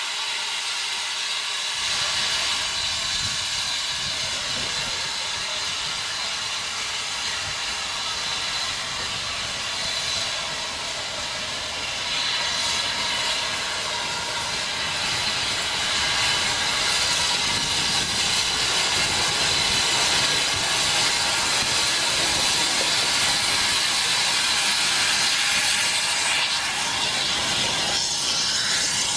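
Narrow-gauge steam locomotive with a steady hiss of escaping steam; a lower rumble joins about two seconds in.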